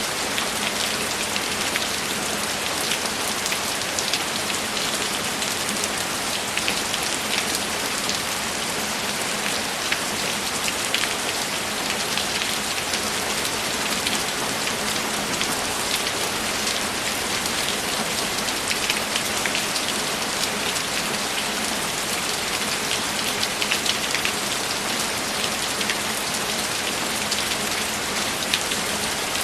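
Steady, dense rainfall, an even hiss with many individual drops ticking through it.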